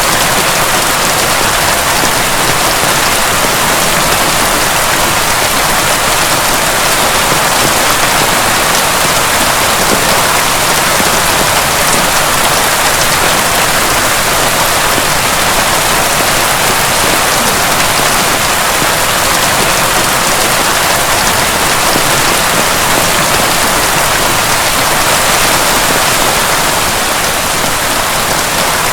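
Heavy rain pouring steadily, a dense, even hiss with no thunder.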